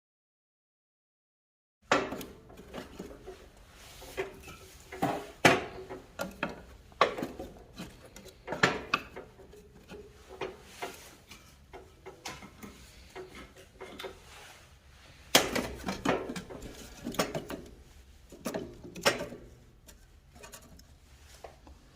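Firewood and fireplace fittings being handled: a long run of irregular hard knocks and clunks of wood and metal, starting abruptly about two seconds in.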